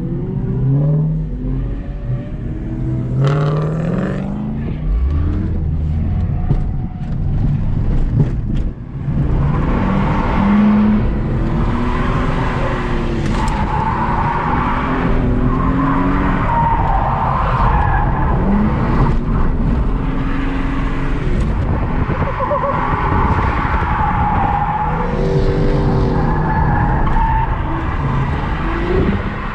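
Ford AU Falcon drifting with its automatic held in first gear. The engine revs rise and fall over and over, and from about ten seconds in the tyres squeal in long stretches.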